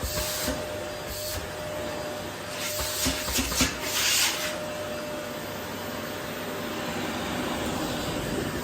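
Vacuum cleaner running steadily while vacuuming rose petals. There are short, louder bursts of rushing and scraping at the nozzle: just after the start, once more a little after a second in, and a cluster about three to four and a half seconds in.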